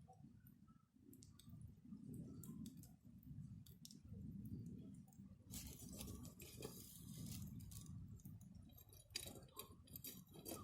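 Wood campfire crackling faintly, with scattered sharp pops and two denser bursts of crackle, over a faint low rumble.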